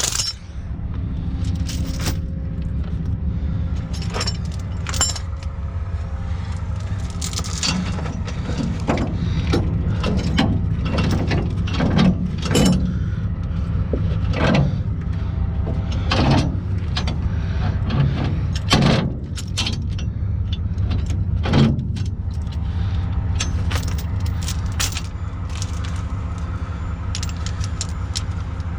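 A heavy truck engine running steadily, with irregular metallic clanks and rattles over it.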